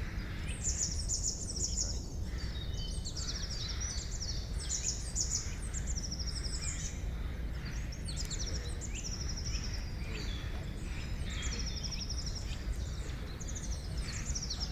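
Several songbirds singing over one another in a forest chorus: quick, high trills and chirped phrases that repeat every second or so, over a steady low rumble of background noise.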